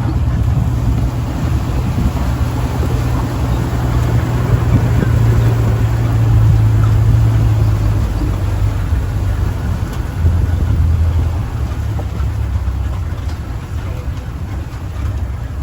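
Safari vehicle's engine running with a steady low hum, its note dropping a little about ten seconds in.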